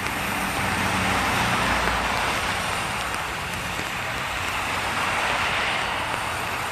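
Traffic on a rain-wet street: a steady hiss of tyres on wet road, with the low hum of a vehicle engine during the first couple of seconds and again near the end.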